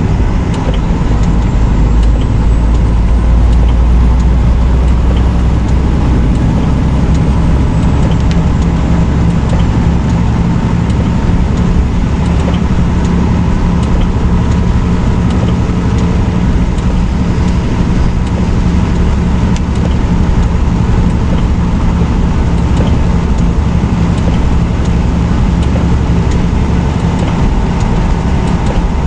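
Semi truck's diesel engine and road noise, a steady low drone while driving down the road.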